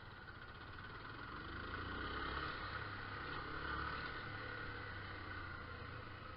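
Motorcycle engine running under way, with road and wind noise. It grows louder about two to four seconds in, then eases back.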